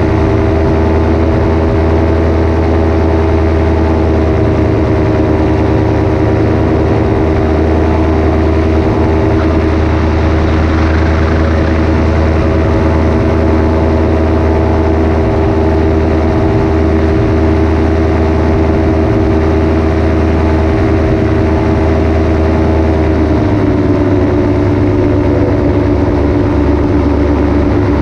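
Paramotor engine and propeller running steadily in flight, loud and even, with the engine speed easing down a little near the end.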